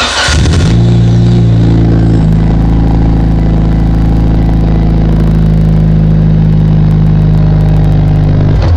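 Car engine cranking briefly on the starter and catching, then idling steadily and loudly; a higher tone in the idle drops away about two seconds in. The engine is switched off near the end, and the sound falls away.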